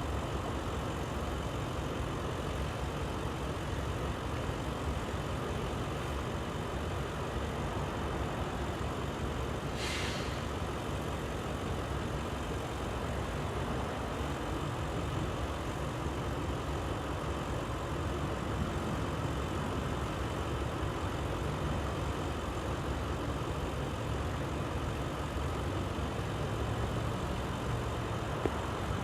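Heavy diesel engine rumbling steadily, with a short hiss about ten seconds in.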